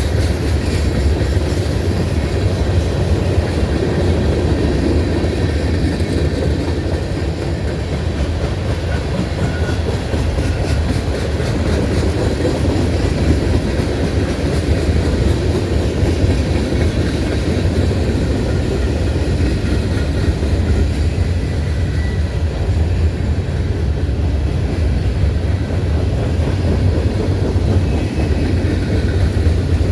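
Norfolk Southern freight train's cars rolling past on the rails: a steady low rumble with the clickety-clack of wheels over the track.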